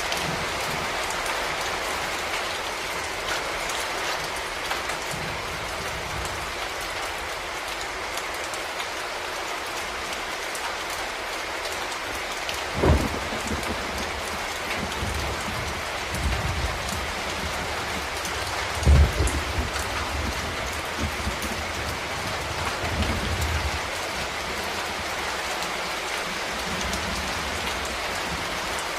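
Steady rain falling and pattering on surfaces, with a few short low thuds, the loudest about halfway through and again about two-thirds of the way through.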